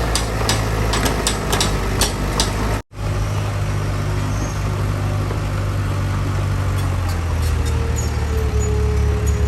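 Heavy construction-machinery diesel engine running steadily, with a series of sharp metallic clanks over the first three seconds. The sound cuts out for an instant about three seconds in, and a steady whine joins near the end.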